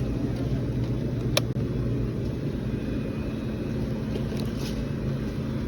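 An engine running steadily with a low hum, and a single sharp click about a second and a half in.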